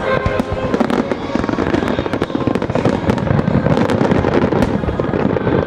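Aerial fireworks going off in a dense, rapid barrage: many sharp cracks and low booms overlapping with hardly a gap, with show music faintly underneath.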